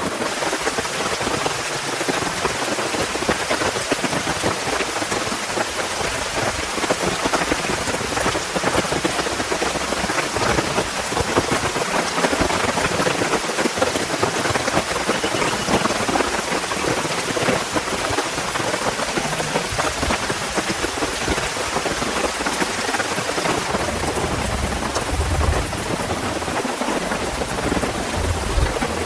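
Heavy rain falling steadily, a dense patter of drops striking a surface. A low rumble of thunder comes in a few seconds before the end.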